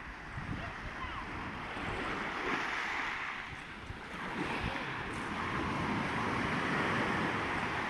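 Sea waves washing onto the shore, the surf swelling about two seconds in and again past the middle. Wind gusts on the microphone add a low rumble.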